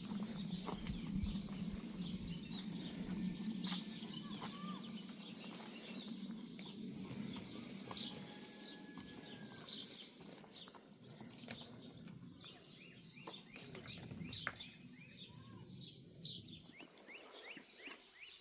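Small birds chirping and calling repeatedly, with a few short whistled notes. A low steady noise underneath fades out about halfway through, and there are scattered light knocks.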